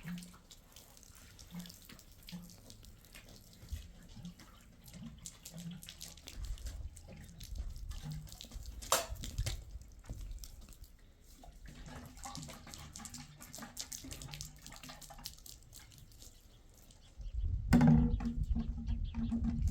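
Water running and splashing, with scattered clicks and knocks. Near the end a louder burst of sound with a low steady hum.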